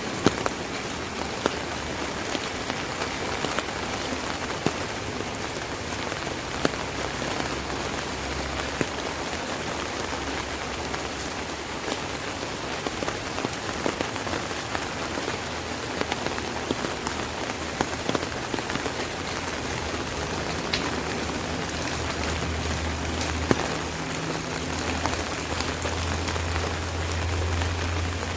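Steady rain pattering on an umbrella canopy, a dense hiss full of small drop taps. A low rumble swells near the end.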